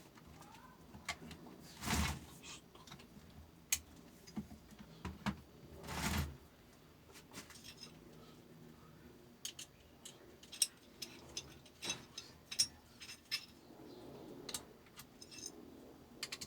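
Small metal parts and tools clicking and clinking while the sharpener of a fabric cutting machine is worked on by hand, with two louder brief noises about two and six seconds in.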